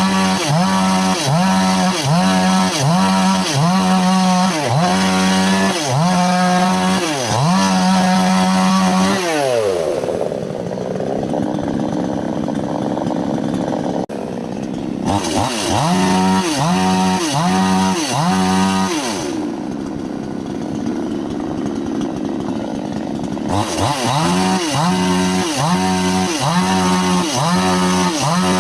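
Two-stroke chainsaw cutting wood. The engine runs at high revs with its pitch dipping and recovering over and over in quick rhythm. Twice it drops back to a lower, steadier running for a few seconds before it speeds up again.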